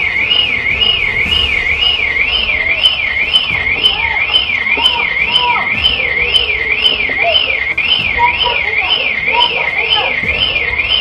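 An electronic siren or alarm tone sweeping steadily up and down, about twice a second, without a break. Fainter short rising and falling sounds come in beneath it in the second half.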